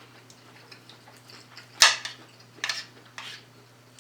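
Eating utensils knocking and scraping against a food dish, a few short sharp clatters, the loudest about two seconds in.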